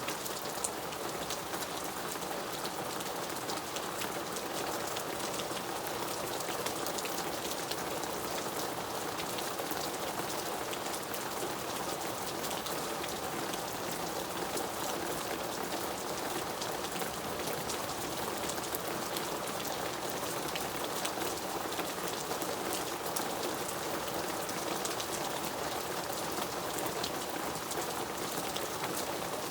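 Steady rain falling, a continuous hiss with many small sharp drop hits scattered through it.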